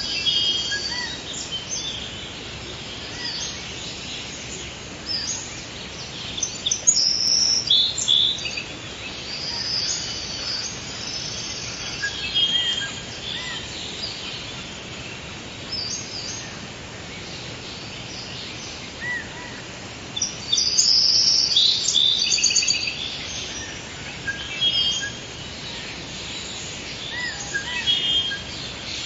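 Forest ambience: several birds chirping and trilling in quick short phrases over a steady background hiss, with the calls busiest about a quarter of the way in and again around two-thirds through.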